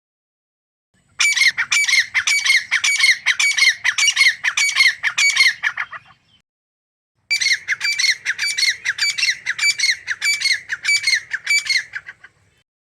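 Grey francolin calling in two bouts of rapid, harsh repeated notes, about four a second. Each bout lasts about five seconds, with a pause of just over a second between them.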